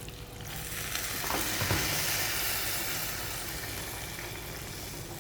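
A hot pan of frying poppy-seed and mustard-seed paste sizzling as water is added. The hiss swells about a second in and slowly dies down, with a couple of light knocks from a utensil.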